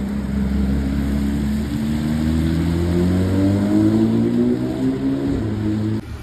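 Porsche 911 GT3's flat-six engine pulling away under acceleration, its pitch climbing steadily as the revs rise, until the sound breaks off suddenly near the end.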